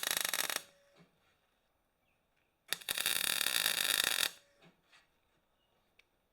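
Short bursts of MIG welding on steel plate, a harsh crackling hiss that starts and stops abruptly: one burst ends about half a second in, and a longer one of about a second and a half comes midway. Near silence lies between them.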